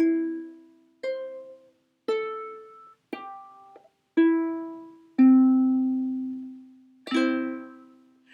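Plucked string instrument playing a short instrumental interlude between sung rounds of a children's song. It sounds seven separate chords about once a second, each ringing out and fading, with a longer-held chord about five seconds in.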